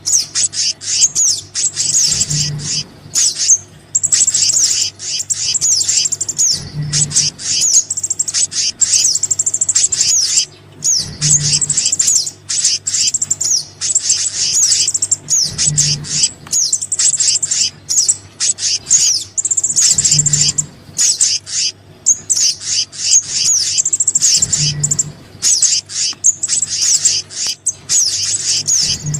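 Bird-lure recording combining sogon and kehicap (black-naped monarch) calls: dense, high, rapid chirps and twittering trills, looping about every four and a half seconds over a steady low hum.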